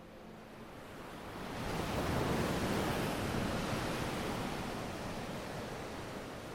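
A rush of noise like surf, swelling over the first two seconds and then slowly fading.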